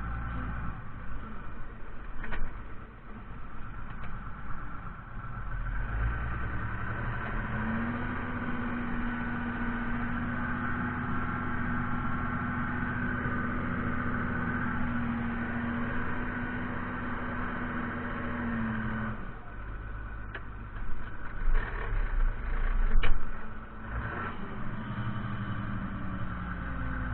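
Fiatagri 130-90 tractor's diesel engine running steadily, its revs rising about seven seconds in, holding, and dropping back about nineteen seconds in. A few louder knocks sound near the end.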